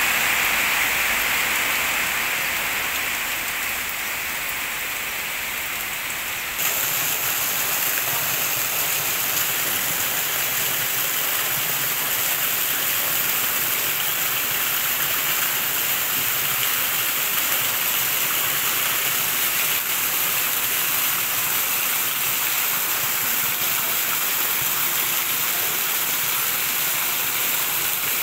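Heavy rain falling steadily. About six and a half seconds in the sound turns louder and fuller, as heavy rain on a corrugated metal roof and water pouring in streams off the roof edge.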